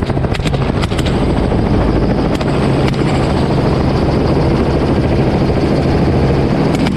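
Helicopter in flight, heard from on board: a steady, rapidly pulsing rotor beat over loud engine and wind noise.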